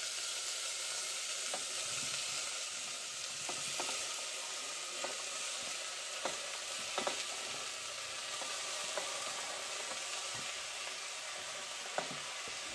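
Soaked, chopped banana flower and chickpeas being added by hand to hot oil with fried onion in a metal pot, sizzling steadily. Scattered light clicks of pieces and fingers against the steel plate and pot rim.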